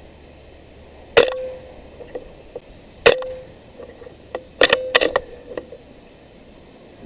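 Four sharp shots from a .22 Benjamin Marauder PCP air rifle, the first two about two seconds apart and the last two in quick succession, each with a brief ringing tail, with a few fainter ticks between them.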